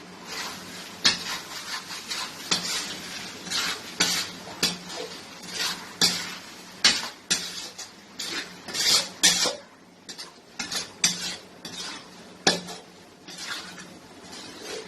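Spoon stirring thick chicken thokku in a cooking pan, with irregular scrapes and sharp clinks of the spoon against the pan as curry leaves and coriander are mixed in. A faint steady hum runs underneath.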